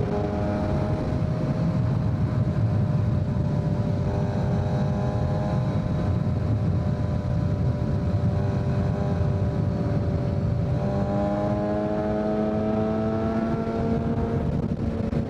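2023 Kawasaki Z900's inline-four engine running through a full Leo Vince exhaust while riding, holding a steady note, then changing note about eleven seconds in and slowly rising in pitch as it pulls. Low wind rush underneath.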